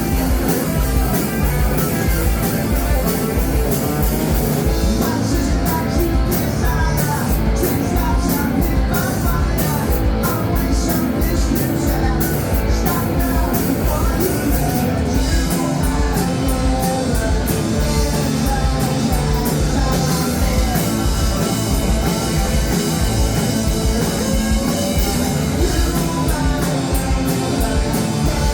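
Live indie-punk rock band playing loud: distorted electric guitars, bass and a driving drum kit with a steady, fast kick-drum beat, with a singer's voice over the top.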